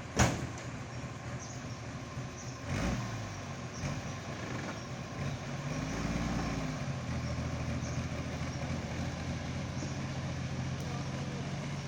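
Vintage army 4x4 truck's engine, revved up and back down once about halfway through, then idling steadily. A sharp knock comes just at the start, and a softer one a few seconds in.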